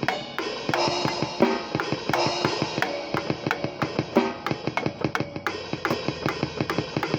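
Acoustic drum kit played freely: fast, steady strokes on drums and cymbals, with bass drum and snare hits and a cymbal wash in places.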